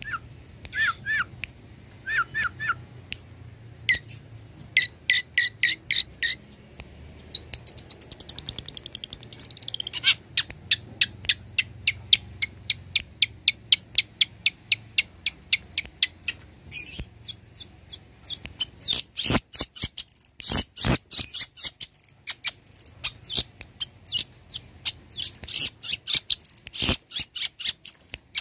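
Long-tailed shrike singing a fast, varied song: short repeated chattering notes, a rising sweep, then long rapid rattles of sharp clicking notes, several a second.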